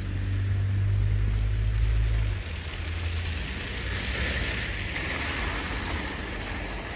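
Storm wind buffeting the microphone: a heavy low rumble that drops away about two and a half seconds in, leaving a steady hiss of wind.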